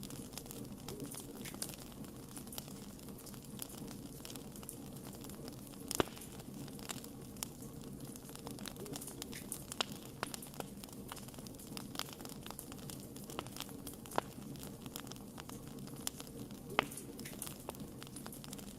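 Wood fire crackling, with irregular sharp pops over a steady low hiss of burning; the loudest pops come about six seconds in and again near the end.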